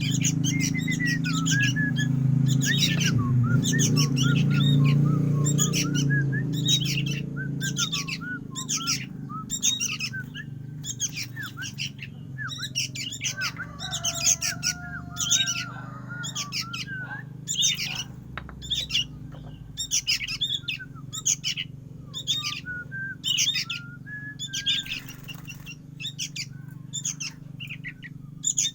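A young bird chirping in short, high calls repeated about once a second, with some wing flutters: the begging calls of a fledgling that is just learning to feed itself. A steady low hum runs underneath, loudest in the first few seconds and fading after that.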